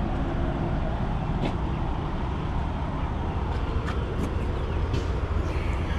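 Steady low rumble of vehicle engines running, with a few faint clicks.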